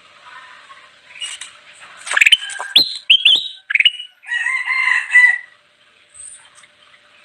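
Kutilang emas bulbul calling: a run of sharp, sweeping whistled chirps from about two seconds in, then a longer warbled phrase of about a second.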